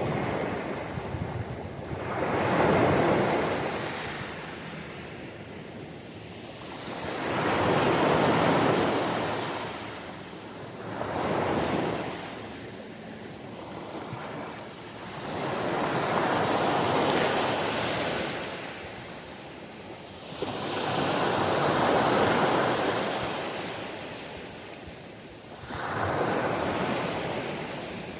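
Ocean waves washing onto a shore. The surf swells and fades in six surges, one every four to six seconds, between softer hissing backwash.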